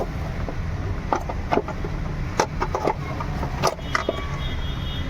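Scattered knocks and clicks, about half a dozen sharp ones between one and four seconds in, from hands and tools working the fuel pump assembly out of the tank, over a steady low rumble.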